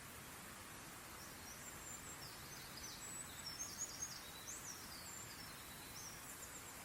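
A small bird singing a run of quick, high chirps and short trills, loudest in the middle, over a steady faint hiss of outdoor ambience.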